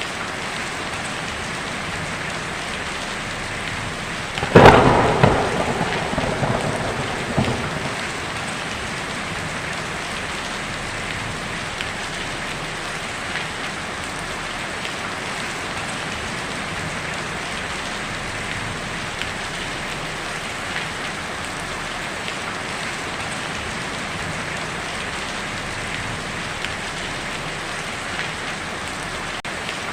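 Steady heavy rain drumming on a tin roof, with a sharp thunderclap about four seconds in that rumbles away over the next few seconds.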